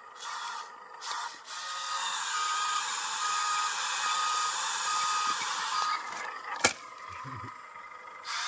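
Small remote-control excavator's motor whirring with a faint high beep repeating about every 0.7 s, straining against grass it cannot dig. It stops about six seconds in, and a single sharp click follows.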